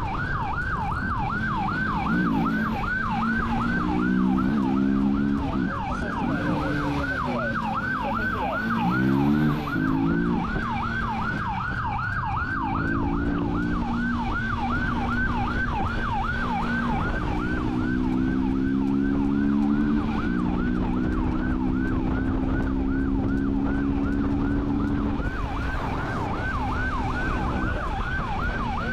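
Police car siren on a fast yelp, sweeping up and down several times a second without a break. Under it the patrol car's engine runs, its pitch stepping up and down as the car accelerates during the pursuit.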